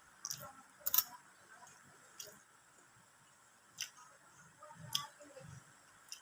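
Close-miked eating sounds: wet mouth clicks and lip smacks while chewing food, in a handful of sharp, scattered clicks, the loudest about a second in.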